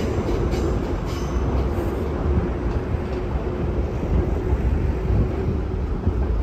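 Tokyo Metro Marunouchi Line train running along open track into a tunnel: a steady rumble of wheels on rail with a faint low hum, and a few light clicks in the first two seconds.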